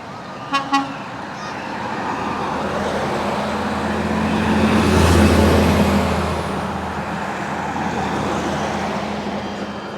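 Two short toots of a truck horn, then a truck's engine growing louder as it drives past, loudest around the middle, and fading away.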